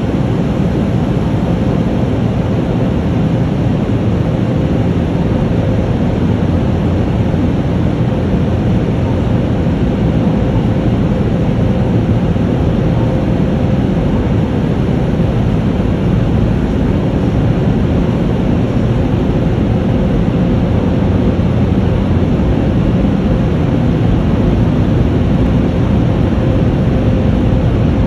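Steady rushing noise of an automatic car wash running, with a faint steady hum under it.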